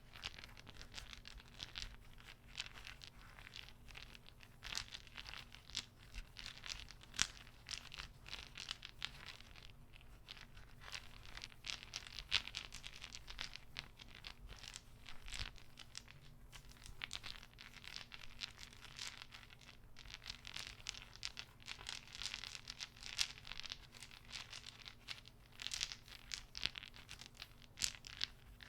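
Rapid, irregular soft clicks and crackles from small objects handled close to the microphone, as an ASMR clicking trigger.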